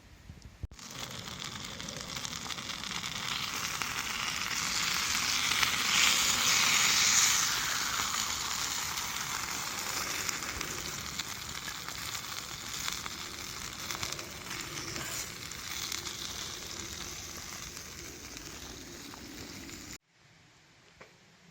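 Food sizzling in a hot pan over a campfire, a steady frying hiss with fine crackles that swells to its loudest about six or seven seconds in and then slowly eases.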